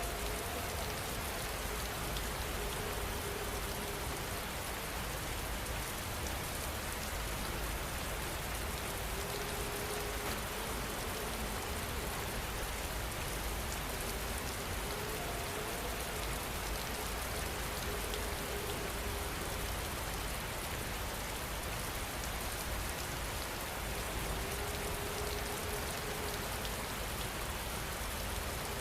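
Steady rain falling, an even hiss of dense drops with no pauses. A faint wavering tone comes and goes underneath several times.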